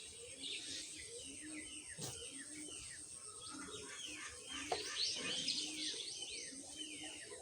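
Small birds chirping, a busy run of short falling chirps that grows thicker about five seconds in.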